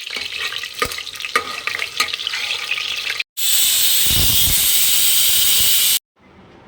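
Food sizzling in a pan while being stirred, with scattered clicks and scrapes of a spatula. After a cut about three seconds in, a loud, steady hiss runs for about two and a half seconds and stops abruptly.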